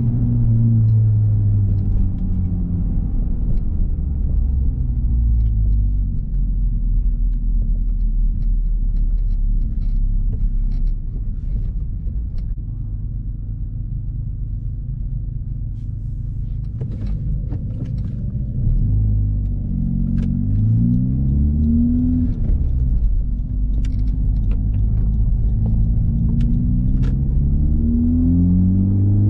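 Honda Civic Type R's turbocharged 2.0-litre four-cylinder with its muffler and resonator deleted, driving. The engine note falls at first and runs steady and lower in the middle, then rises in pitch under acceleration about two-thirds of the way in and again near the end.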